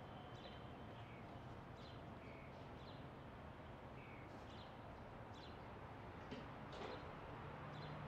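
Faint short bird chirps, one or two a second, some dropping in pitch, over a low steady hum.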